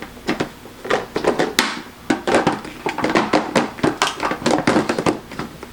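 Parts of a coffee maker being handled and compared: a steady run of light knocks, taps and clicks, with no single loud blow.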